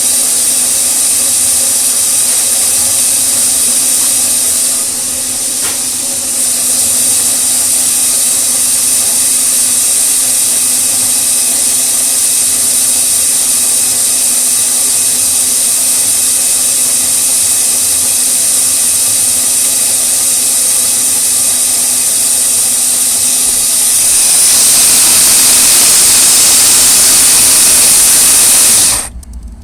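OXO Brew conical burr coffee grinder running a 30-second timed grind of coffee beans: a steady motor hum under a loud grinding hiss, growing louder about five seconds before the end, then cutting off suddenly near the end.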